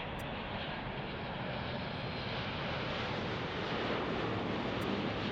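Jet airliner passing, its engines making a steady rushing noise that grows slowly louder.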